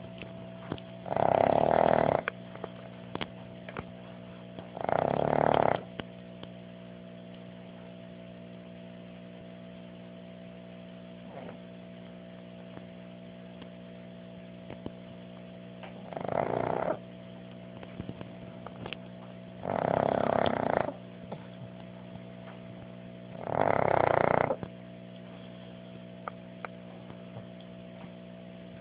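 A pug snoring in its sleep: five snores, each about a second long. Two come in the first six seconds, then after a long pause three more follow at gaps of a few seconds.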